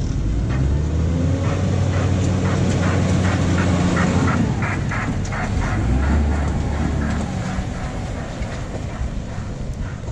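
Botchan train, a diesel-powered replica of a small steam locomotive hauling wooden carriages, passing close by on tram tracks. Its engine's low running note swells as it passes and fades over the last few seconds, with a quick run of wheel clicks over the rail joints, about three a second, in the middle.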